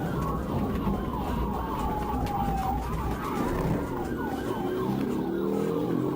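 Police car sirens sounding during a pursuit: a slow falling wail overlapping a fast repeating yelp, over the rumble of a vehicle engine.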